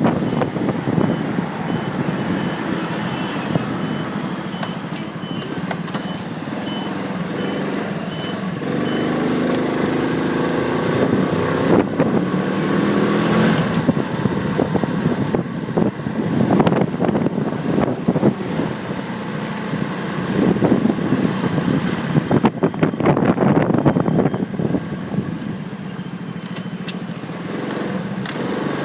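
Motorcycle engine and road noise picked up by a phone mounted on the bike, riding in traffic, with the engine note changing pitch midway. A regular high beeping sounds through the first several seconds.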